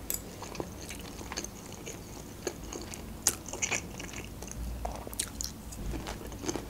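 Close-up eating sounds of a person chewing and biting food, with scattered short wet mouth clicks.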